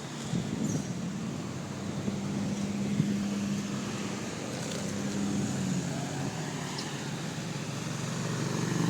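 Motorcycle engine running at idle, getting louder near the end.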